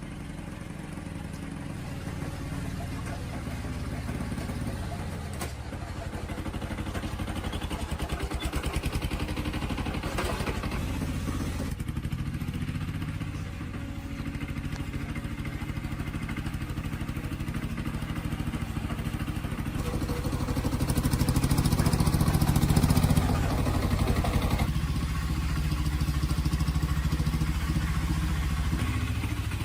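A vehicle engine running steadily, swelling louder about twenty seconds in and easing back a few seconds later.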